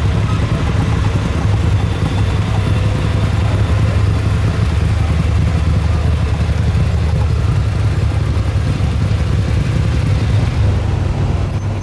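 A car engine running steadily, its deep low note holding level throughout.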